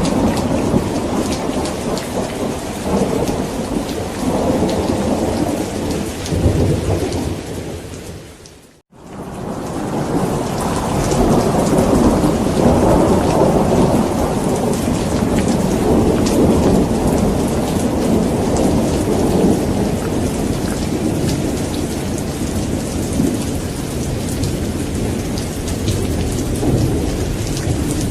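Steady heavy rain with deep rumbling thunder underneath. About eight seconds in, the sound fades out to near silence for a moment, then swells back up over the next few seconds to full strength.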